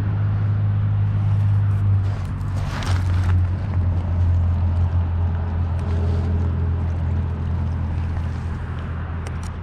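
A steady low mechanical drone with a rushing noise over it, the rushing briefly louder about three seconds in.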